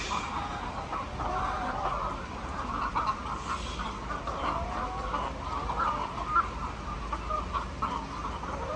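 A flock of laying hens clucking, many birds calling over one another without a break.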